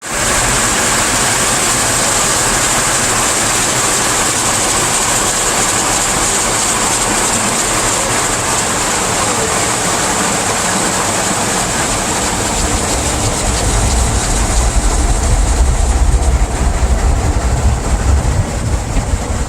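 Automatic drive-through car wash heard from inside the car: a loud, steady hiss of water spraying over the body, with a heavier low rumble from the wash machinery building about two-thirds of the way through.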